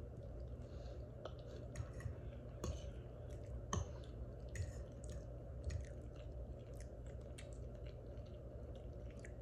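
A person chewing a big mouthful of loaded potato in Alfredo sauce close to the microphone: wet mouth noises and small irregular clicks and smacks over a steady low hum.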